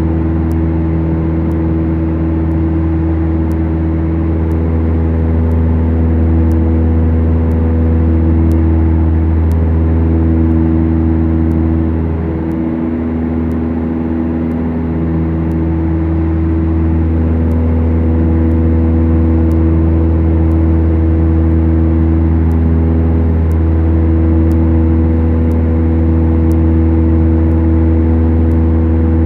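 Beechcraft Duchess twin-engine light aircraft, its two four-cylinder Lycoming piston engines droning steadily, heard inside the cabin. The drone is a deep hum with a slight beat between the two engines, dipping briefly about twelve seconds in.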